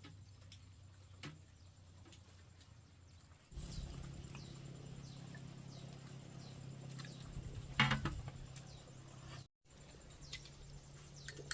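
Birds chirping in short falling notes over a low steady hum, with one sharp knock a little past halfway.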